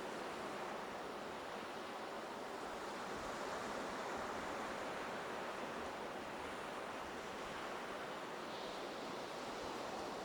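Ocean surf washing onto the beach: a steady, even rush of wave noise with no single breaking wave standing out.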